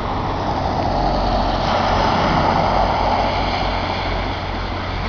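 A vehicle driving through floodwater on the road, its tyre and splashing noise swelling to a peak about two seconds in and then fading as it passes.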